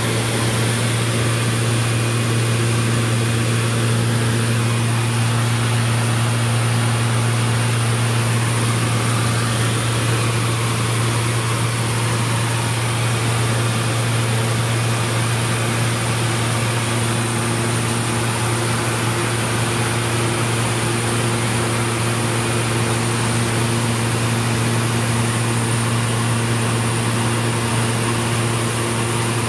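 Aircraft engine and propeller drone, steady and unchanging, with a strong low hum and a constant hiss.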